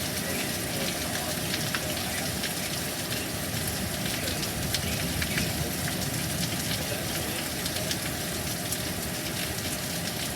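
Heavy thunderstorm rain falling steadily, a dense hiss full of small drop ticks.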